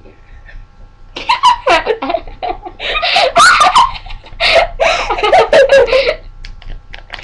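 People laughing hard, with bursts of giggling that start about a second in and go on for several seconds.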